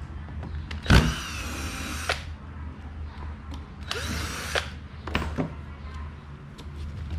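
Power drill whirring in two short bursts of about a second each, with a few clicks after the second, over a steady low hum.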